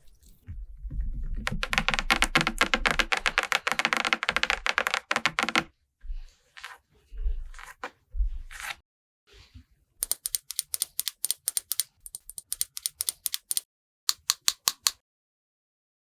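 Rapid tapping clicks in runs. A dense flurry of fast taps runs for about four seconds, then a few scattered taps follow. After that comes a crisper run of evenly spaced taps at about seven a second, and a few last taps near the end.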